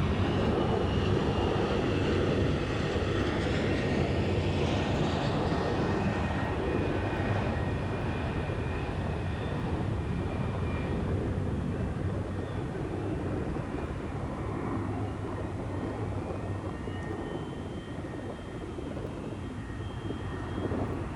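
Airbus A321 jet airliner taking off, its engines a steady roar with a thin whine on top, slowly fading as it climbs away.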